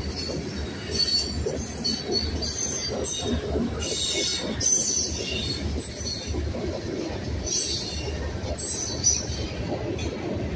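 Freight train rolling past with a steady rumble, its wheels screeching in short, high-pitched bursts again and again.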